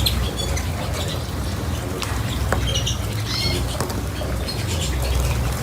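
Small pet birds fluttering their wings, with short high chirps and a few light clicks.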